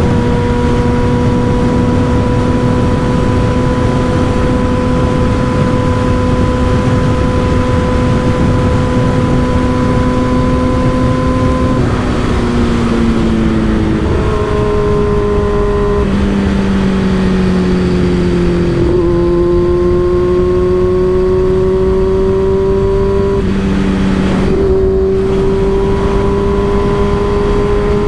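Motorcycle with an M4 aftermarket exhaust under way, its engine note holding steady for a while, then dropping about halfway through and stepping up and down in pitch a few times before it climbs again. Heavy wind noise rushes over it.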